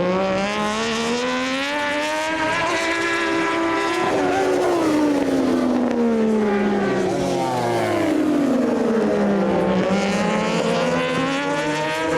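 Moto2 racing motorcycle's Triumph three-cylinder engine at high revs. Its pitch climbs for about four seconds, falls as the bike slows, and rises again near the end as it accelerates.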